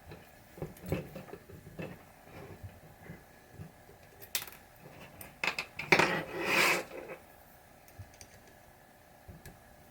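Allen wrench and small metal screws and parts clicking and clinking while screws are backed out of a pinball playfield assembly, with a louder metallic clatter about six seconds in.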